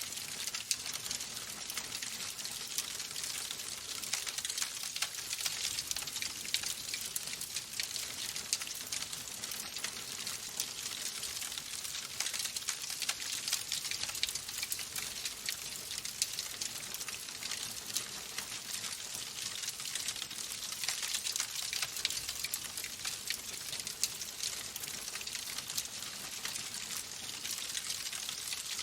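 Fire crackling steadily in a fireplace: a dense, even stream of small pops and snaps over a soft hiss.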